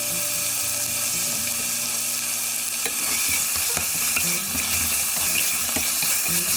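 Onion, ginger-garlic paste, coriander and mint masala sizzling in hot ghee and oil in a pot, with a steady frying hiss. About halfway in, stirring begins, adding scraping strokes against the pot.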